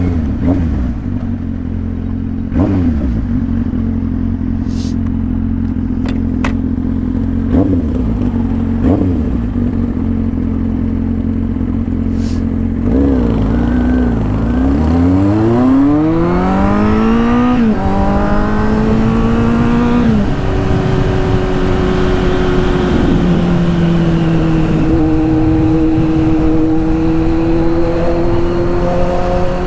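Kawasaki Z800 inline-four engine through a straight-through exhaust, running loud and steady with a few brief dips. About halfway in its pitch drops, then climbs twice with a sudden drop between, then holds nearly steady.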